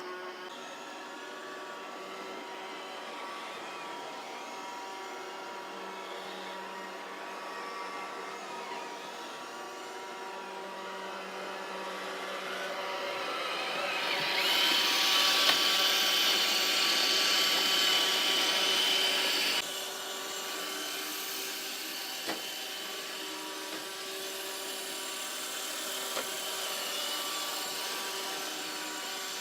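iRobot Roomba robot vacuum running with a steady motor hum and whine. About halfway through it grows much louder and hissier for about five seconds, then suddenly drops back to the steady hum.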